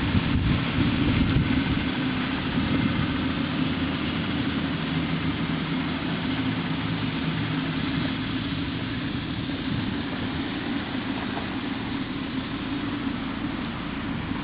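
2009 Volkswagen Eos's 2.0-litre four-cylinder engine idling steadily.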